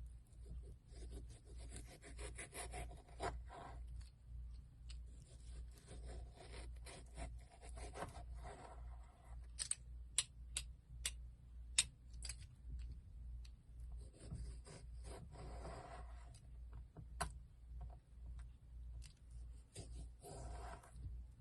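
Slime being squeezed, stretched and pressed by hand, making sticky crackling and squelching, with a run of sharp pops about ten to twelve seconds in.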